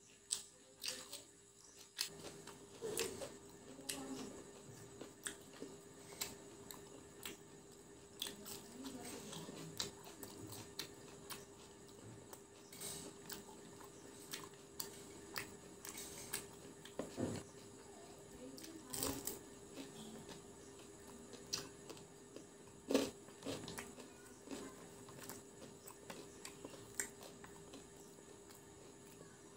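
Close-up eating sounds: biting and chewing crispy fried chicken pakora and cucumber slices, with irregular crunches, wet mouth clicks and smacks. A faint steady hum runs underneath.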